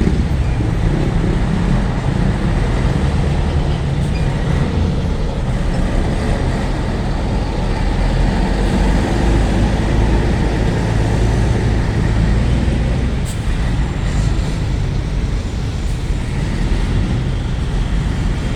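Heavy truck running on the road: a steady, loud engine and traffic noise, strongest in the low end.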